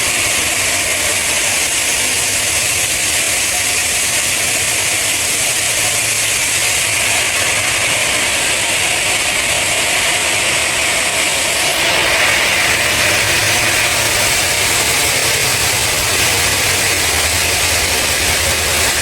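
Heavy machinery running steadily: a loud, even hiss with a low hum beneath it, shifting slightly and getting a little louder about twelve seconds in.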